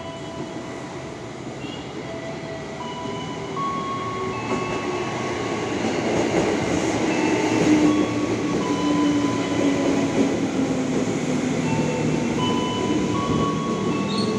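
KRL Commuter Line electric train running through the station, with a steady rumble that grows louder about halfway in, and whining tones from the train's motors, one slowly falling in pitch.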